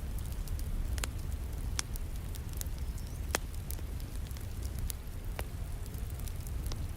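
Wood fire crackling in a fireplace, with sharp pops every second or two and a louder pop about halfway through. Beneath it runs a steady low rush of falling rain.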